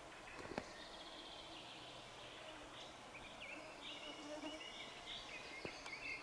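A songbird singing in short chirps and whistles over a steady faint hiss, with a sharp click about half a second in and another near the end.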